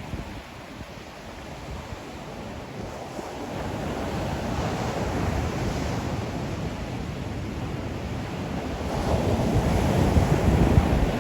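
Ocean surf: waves breaking and washing ashore. The sound starts fairly low, builds from about four seconds in and swells again near the end as another wave comes in.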